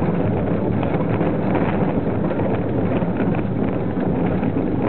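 A BR 20-ton brake van rolling along the rails while a Class 03 diesel shunter pushes it: a steady rumble of wheels and running gear, with wind buffeting the microphone.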